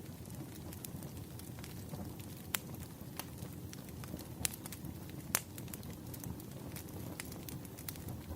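Campfire crackling: a steady low rumble of burning wood with scattered sharp pops, three of them louder in the middle of the stretch.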